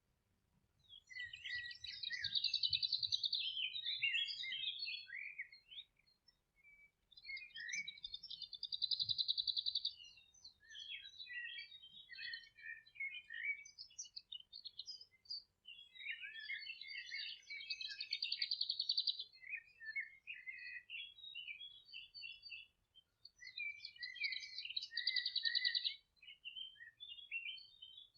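Songbird song: four phrases, each built around a fast, buzzy trill and spaced about seven seconds apart, with shorter twittering notes in between.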